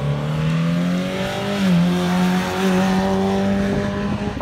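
Classic sports car engine pulling hard uphill. Its note rises, dips briefly with a gear change about a second and a half in, then holds a steady high pitch.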